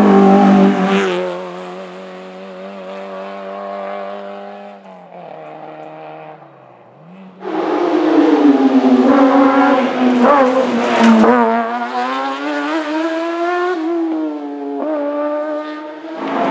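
Racing car engines at full throttle. One car drives away and fades into the distance. About seven seconds in, a sudden cut brings a second car close by, its engine pitch climbing and dropping through gear changes.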